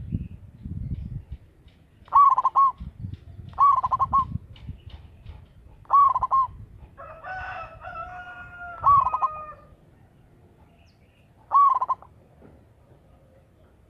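Zebra dove (perkutut) cooing: five short, quick warbling phrases a couple of seconds apart. A rooster crows in the background partway through.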